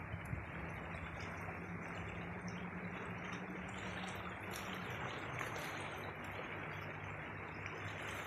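Steady wash of shallow sea water on the shore at low tide, with a faint low steady hum beneath it in the first half.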